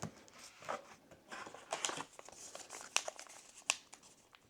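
Faint handling of trading-card booster packs and cards: a foil pack wrapper crinkling, with scattered short rustles and sharp clicks.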